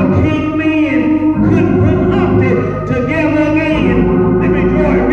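Church music: a voice singing long, gliding notes over sustained instrumental chords.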